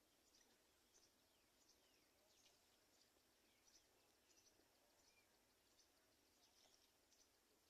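Near silence, with faint, high-pitched bird chirps repeating throughout and a few short falling whistles over a low hiss.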